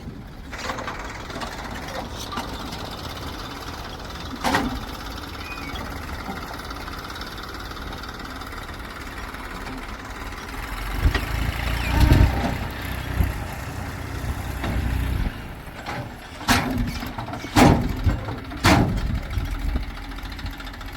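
Heavy machinery's diesel engine running steadily, growing louder for a few seconds past the middle, with a few sharp knocks, one early and three close together near the end.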